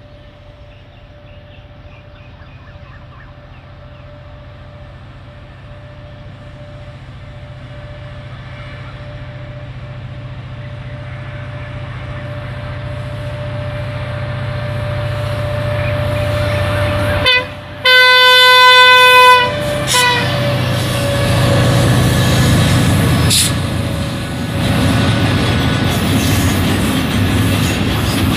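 Diesel train approaching, its engine rumble growing steadily louder. About two-thirds of the way in the locomotive's horn sounds one long blast of about two seconds, then a short toot, followed by the heavier running noise of a train passing close by.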